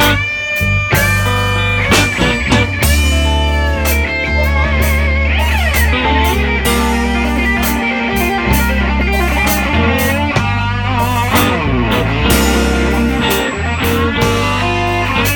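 Live electric blues band playing an instrumental passage: lead electric guitar with bent, sliding notes and vibrato over bass and drums.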